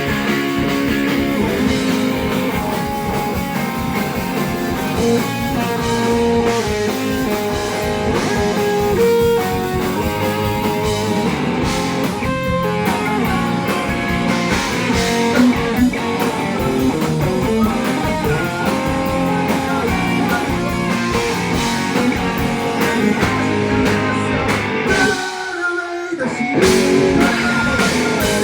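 Rock band playing: guitar over drum kit and bass, with little or no singing. Near the end the low end drops out for about a second before the full band comes back in.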